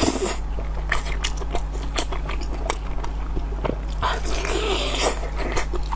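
Close-miked mukbang eating sounds: a person chewing and smacking on oily, fatty food, with many short wet clicks. A steady low hum runs underneath.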